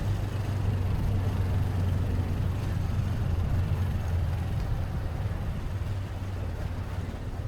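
Motorcycle taxi riding through traffic: a steady low engine hum with road and traffic noise, easing a little quieter over the last few seconds.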